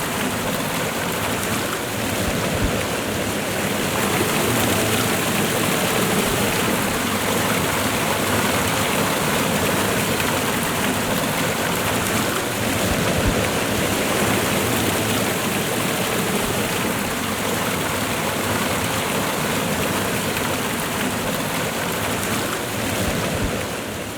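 Waterfall and rushing river water, a steady full rush with no breaks; it begins to fade out near the end.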